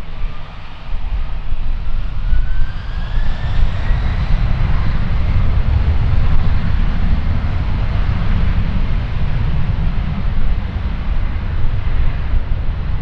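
Jet airliner engines with a heavy low rumble and a whining tone that climbs in pitch over the first few seconds.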